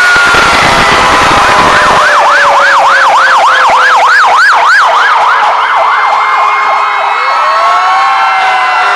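Several fire truck sirens sounding at once: slow wail tones gliding down, overlaid by a fast yelp that sweeps up and down about four times a second from about two seconds in, before another wail starts rising near the end.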